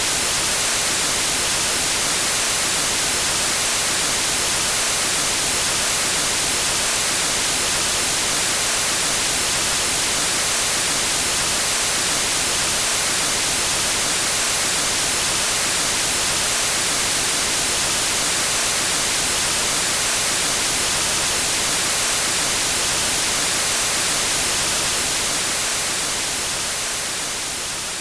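Television static hiss, an even white noise strongest in the high frequencies, beginning to fade out near the end.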